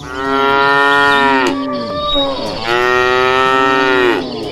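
Cow mooing: two long moos, each dropping in pitch as it ends.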